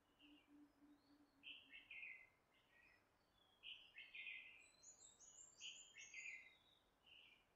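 Faint songbird chirps: short high calls repeated every second or so, with a quick run of higher, stepped notes about five seconds in.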